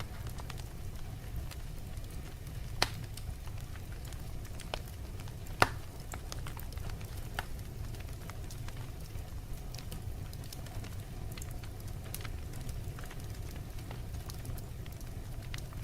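Fire crackling: a steady low rumble with scattered sharp pops, two of them louder, about three seconds in and just before six seconds.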